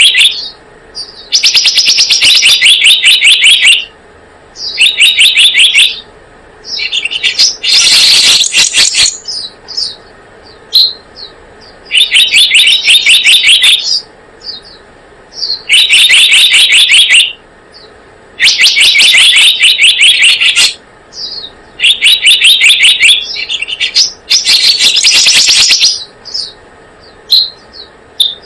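Recorded lure call of the selendang biru bird: loud, rapid trilled phrases of about two seconds each, repeating every few seconds, with short single high notes between them.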